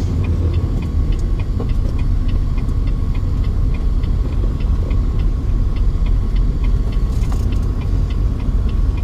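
Steady low rumble of a truck running down the road, heard from inside the cab, with a regular light ticking about twice a second.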